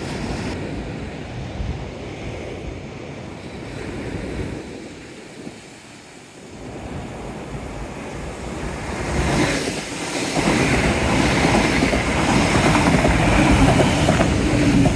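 Sea waves washing in along a seawall, with wind buffeting an unshielded microphone; the rush swells louder about two-thirds of the way through.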